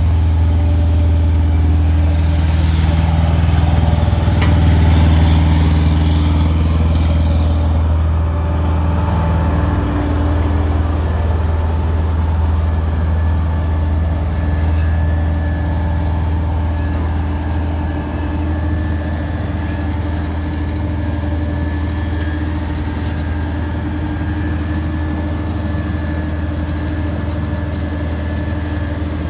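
Heavy diesel engine of road-paving equipment running steadily with a deep, even hum, a little busier for the first several seconds.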